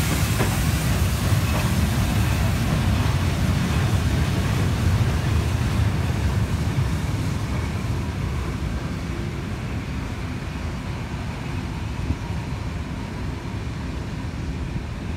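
Steam train's tender, water-tank wagon and passenger carriages rolling past along the platform: a steady low rumble that gradually fades as the train moves away.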